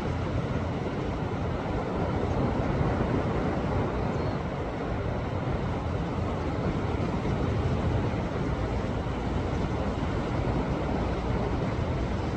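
Sea waves surging against a rocky shore: a steady surf rumble of churning water that swells a little and eases without a break.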